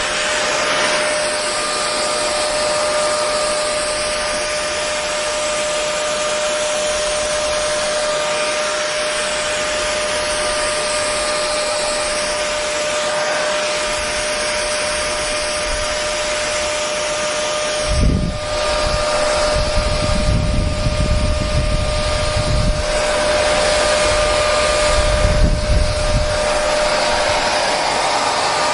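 Hair dryer running steadily: an even rush of air with a steady whine. About 18 seconds in comes a low thump, then low rumbling comes and goes for several seconds.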